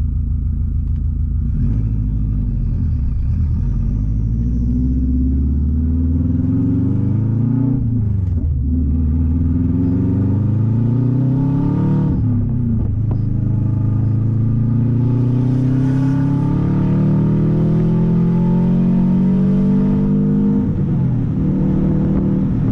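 Turbocharged Subaru flat-four with a catless open downpipe and no other exhaust, loud and raw, pulling hard under acceleration. The pitch climbs, drops sharply at gear changes about eight and twelve seconds in, then rises slowly through a longer pull before falling near the end.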